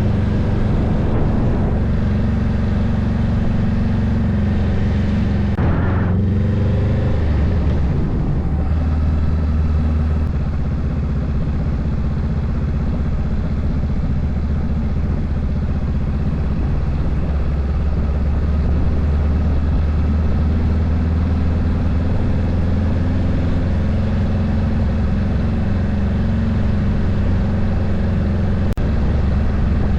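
Honda Rebel 500's parallel-twin engine running steadily under way, heard close from the handlebars. The engine note shifts pitch about six seconds in and again just before nine seconds, then settles into a steady run.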